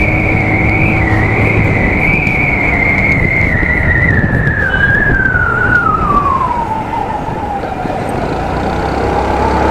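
Hero Maestro Edge 110 cc automatic scooter on the move, with wind and road noise. A high whine wavers steadily, then falls in pitch over about four seconds as the scooter slows, and starts to climb again near the end.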